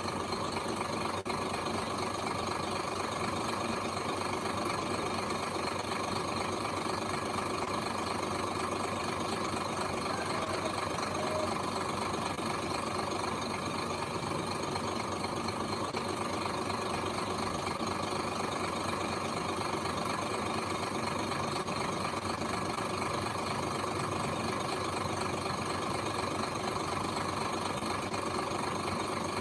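Diesel engine of heavy earthmoving machinery running steadily, a constant drone with no clear revving or stops.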